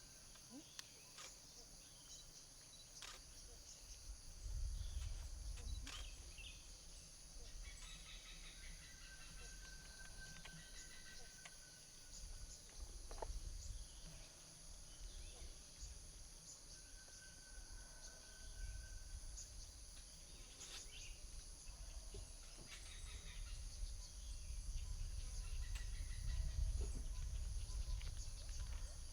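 Forest and grassland ambience: insects chirring in a steady high drone, with faint short bird whistles now and then and swells of low rumble, loudest near the end.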